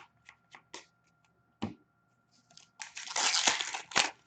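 Scattered clicks of computer keyboard keys being pressed. About three seconds in comes a loud rustle lasting about a second, ending in a sharp click.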